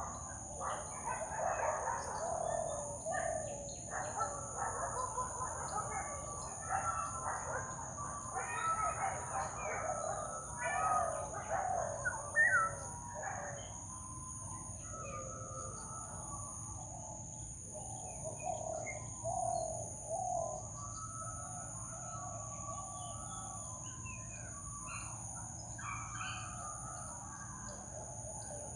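Many jungle birds calling and chattering together, busiest in the first half and thinning out after about halfway, over a steady high-pitched drone.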